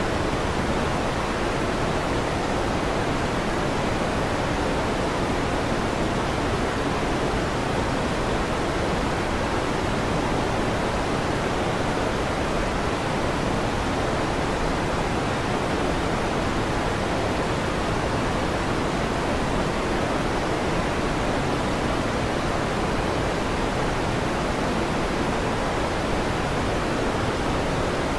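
Electric fan running with a steady, even whooshing rush that does not change; no thunder claps or rumbles are heard.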